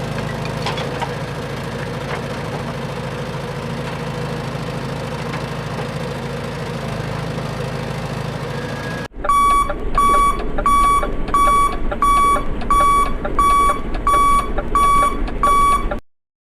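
A vehicle engine running steadily cuts off abruptly about nine seconds in. An electronic beeping alarm follows: ten evenly spaced high beeps, about 0.7 s apart, that stop suddenly.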